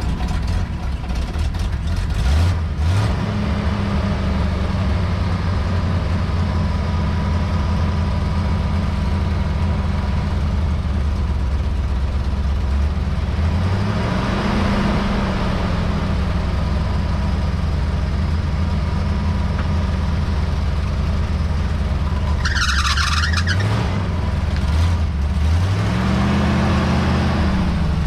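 Vehicle engine idling steadily and revved up and back down a few times. A short high whine comes through during one of the later revs.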